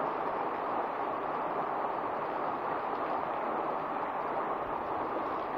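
Steady heavy rain, a dull even hiss heard muffled through a wet phone microphone.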